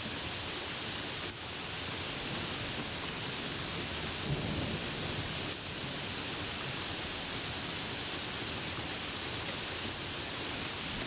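Steady heavy rain falling, a continuous even hiss, with a low roll of thunder rumbling in about four seconds in and fading over a second or two.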